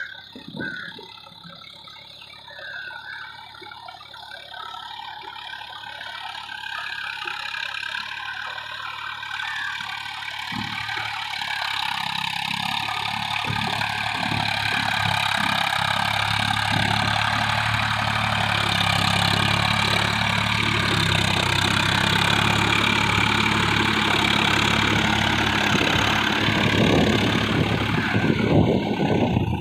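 Tractor engine running, growing steadily louder over the first fifteen seconds or so as it comes closer, then running loud and steady.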